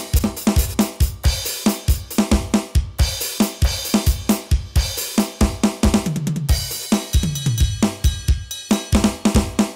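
Roland TD-8 electronic drum module's kit sounds played as a fast drum-kit groove: bass drum, snare, hi-hat and cymbal hits, with a tom fill stepping down in pitch about six and a half seconds in.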